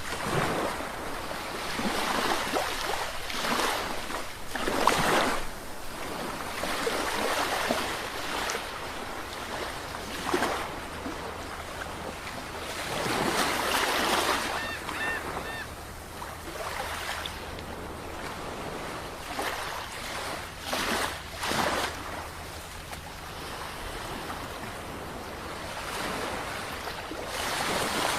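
Ocean surf: waves breaking and washing in one after another, a surge every few seconds.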